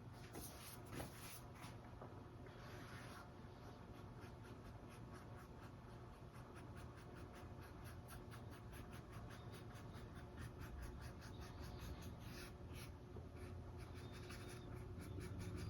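Faint paintbrush strokes on stretched canvas: quick, repeated dabbing and brushing of acrylic paint, with a few longer, stronger strokes.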